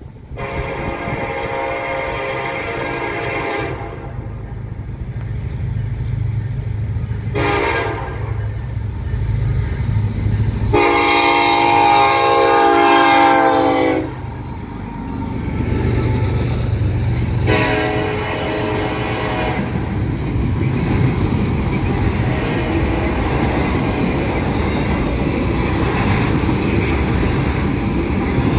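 Norfolk Southern freight locomotive (GE ES44AC 8101) sounding its air horn in four blasts: a long one, a short one, a long loudest one, then a shorter one. Between and after the blasts comes the low rumble of the diesel locomotives passing, followed by the steady rolling noise of double-stack intermodal cars going by.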